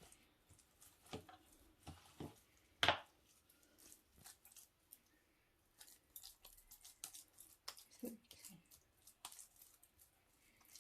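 Oiled hands pressing and patting a sticky grated-potato and egg mixture into hash brown patties, with soft squishing and scattered light taps. One sharper tap just under three seconds in.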